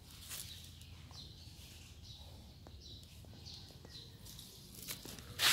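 Small birds chirping now and then over faint outdoor background noise, with a brief louder noise near the end.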